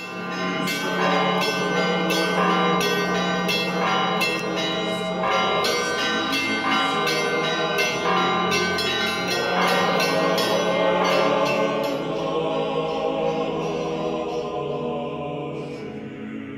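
Orthodox church bells ringing in a rapid, evenly repeated peal over a steady low tone. The strikes stop about three-quarters of the way through and the ringing dies away.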